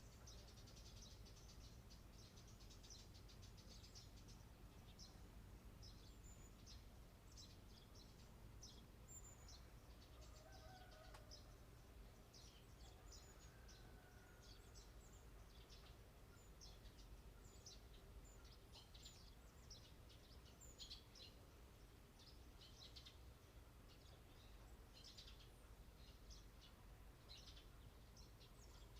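Faint birdsong from outdoor birds: many short, high chirps and twitters coming every second or so, over a steady low hum.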